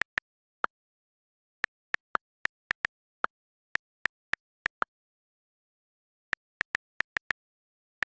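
iPhone on-screen keyboard key clicks: short, sharp ticks in irregular runs as keys are tapped. A pause of about a second and a half comes before a quick run of six taps near the end.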